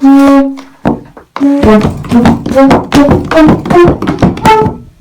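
A pitched musical instrument played by hand: one long note to begin, then a quick run of notes at different pitches, each with a sharp start, about three or four a second, stopping just before the end.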